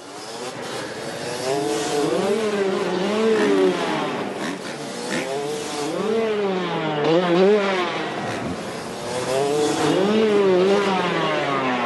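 Motocross motorcycle engines revving up and down over and over, the pitch climbing and falling about every two seconds.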